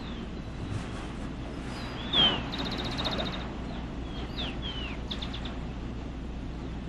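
Small birds chirping over a steady background hiss: several short downward-sliding whistles and a few quick trills of rapid repeated notes, the loudest call about two seconds in.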